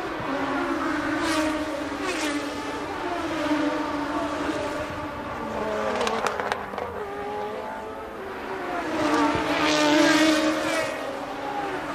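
Several 1982 Formula One cars racing, their engines overlapping and sliding up and down in pitch as they shift gears and pass. The cars swell loudest near the end, with a few sharp clicks about halfway through.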